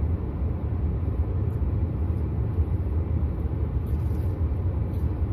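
Steady low rumble of a car's running engine heard inside the cabin, with a few faint short clicks over it.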